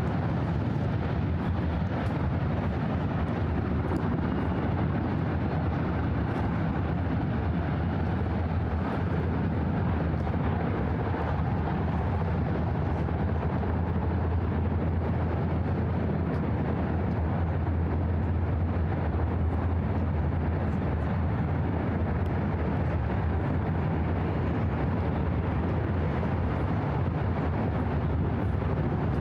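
Steady low rumble of distant city traffic, an even drone with no distinct passing vehicles.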